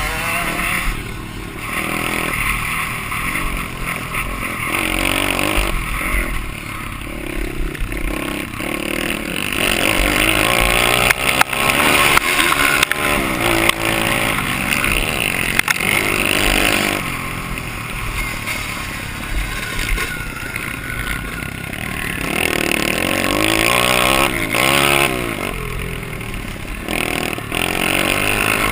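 Dirt bike engine revving hard and easing off over and over as it is ridden around a track, its pitch climbing and dropping.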